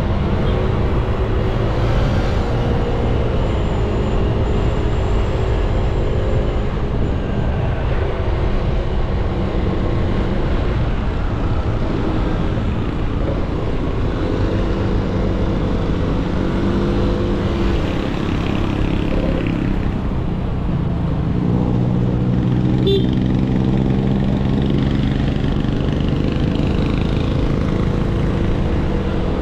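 Motorcycle engine running under way, its pitch rising and falling several times as the rider speeds up and eases off, over steady wind and road rumble.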